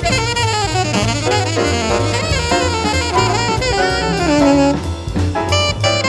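Jazz quartet playing: alto saxophone running a fast melodic line over walking double bass, piano and drum kit.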